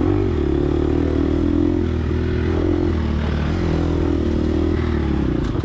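Gas Gas EX250F dirt bike's single-cylinder four-stroke engine running hard on the throttle, its note rising and falling as the rider works through the trail.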